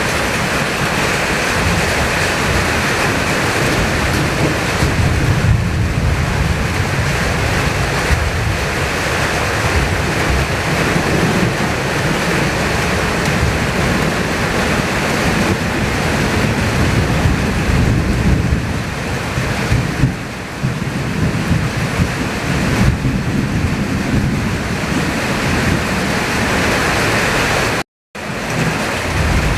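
Summer thunderstorm: heavy rain pouring and strong gusting wind, with a deep rumble from wind buffeting the microphone. The sound cuts out briefly near the end.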